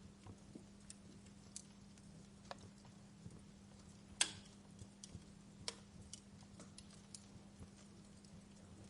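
Wood fire crackling in a fireplace: irregular sharp pops and snaps over a faint steady hiss, with one louder pop a little over four seconds in.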